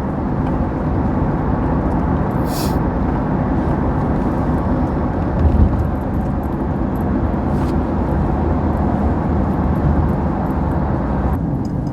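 Steady road and engine noise inside a car moving along a highway, with a brief hiss about two and a half seconds in.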